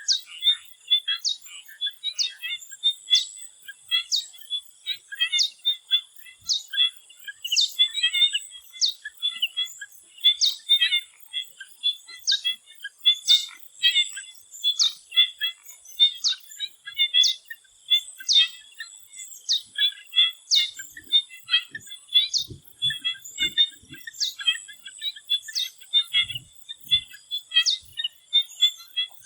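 Tropical swamp chorus at dusk: many frogs giving short chirping calls over one another, with one sharper call repeating about once a second. Insects keep up a steady high drone underneath. A few faint low thumps come near the end.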